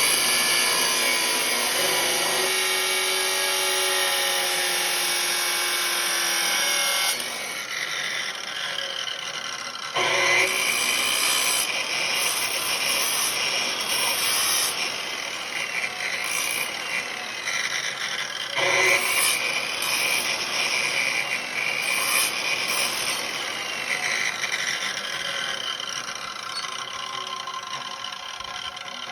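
A power tool running on workpiece material, its pitch shifting as the load changes. It drops back about seven seconds in, comes on hard again around ten seconds, and fades towards the end.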